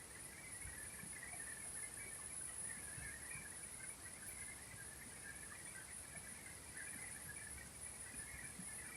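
Insects chirring steadily: one thin, continuous high whine and a lower, busier chirring, over a faint low rumble.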